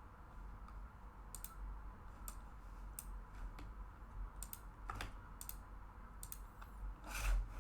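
Computer keyboard keys and mouse buttons clicking, irregular and scattered, over a low steady hum. A longer, louder rustling burst comes near the end.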